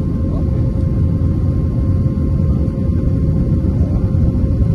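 Airbus A320 engine and airflow noise heard inside the passenger cabin during takeoff or climb: a loud, steady rumble with a thin steady hum above it.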